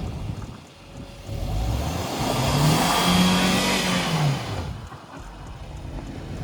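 Car engine revving up and falling back over about three seconds, with a rushing hiss at its peak, as the car is driven out of snow.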